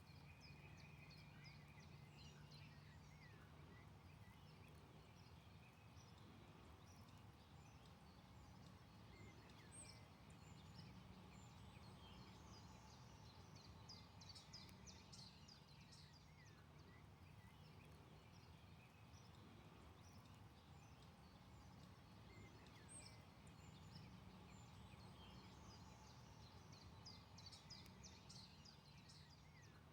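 Faint birdsong: many small songbirds chirping and trilling, with denser bursts of rapid notes now and then, over a steady low hum.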